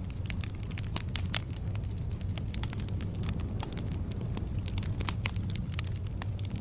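Wood fire crackling in a fireplace: many irregular sharp pops and snaps, several a second, over a steady low rumble of the flames.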